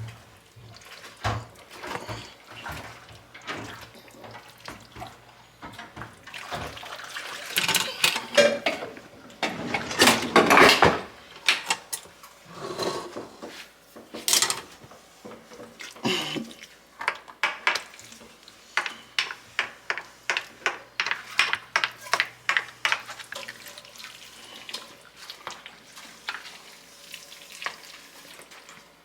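Dishes being washed at a kitchen sink: tap water running in spells, loudest about ten seconds in, with dishes and utensils clinking and knocking, in a quick run of clinks later on.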